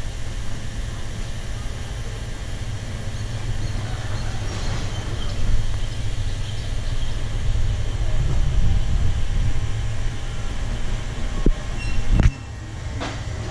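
Alsthom diesel-electric locomotive engine running at idle, a steady low rumble. The level drops abruptly after a brief sharp sound about twelve seconds in.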